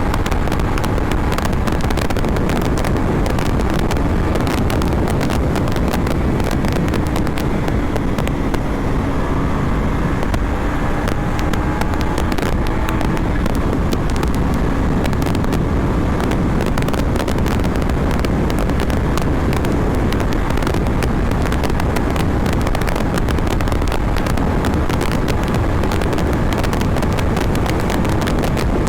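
KTM Duke 250 single-cylinder engine running while the bike is ridden, almost buried under heavy wind rush on the microphone. A faint engine note climbs a little and eases back in the middle.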